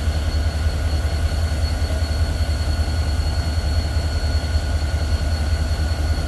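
Diesel-electric freight locomotives idling: a steady deep rumble with a thin steady whine above it.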